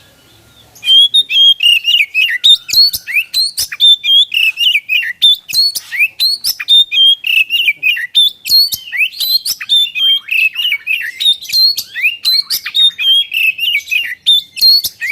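Oriental magpie-robin (kacer) in full song, beginning about a second in with a fast, unbroken stream of loud chirps and sweeping whistled notes.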